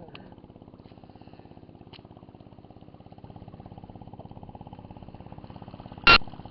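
Small engine running steadily at low revs, a little louder from about halfway, with one short, sharp knock near the end.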